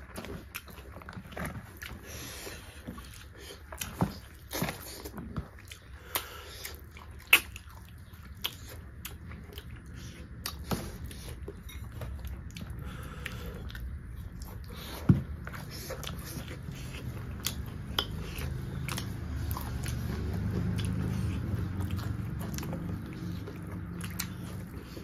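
Close-miked eating sounds from people eating beef curry and rice by hand: chewing and wet mouth clicks and smacks, with a few sharp clicks standing out, the loudest about 7 and 15 seconds in.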